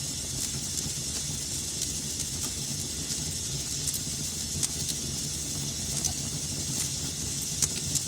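Fire in a fireplace crackling: a steady hiss with frequent sharp crackles and pops over a low rumble, with one louder pop near the end.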